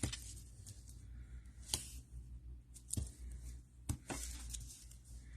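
Cardstock and tape being handled on a craft table: soft paper rustling with a few light taps and clicks, about four in all.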